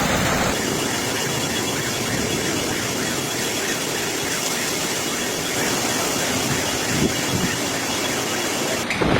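Steady rushing storm noise of heavy rain and wind, with a change in the noise about half a second in and again near the end.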